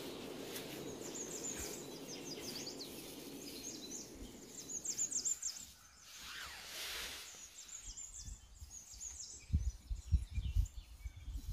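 Small birds singing and chirping outdoors over a steady background hiss. A short swell of noise comes about six seconds in, and low bumps come near the end.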